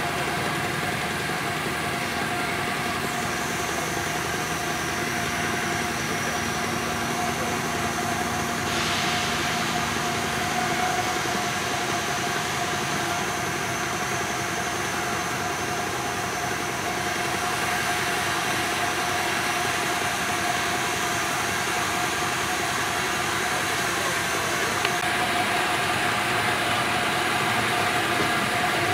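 A minimal gauge railway train running, giving a continuous, even mechanical noise with a faint steady whine.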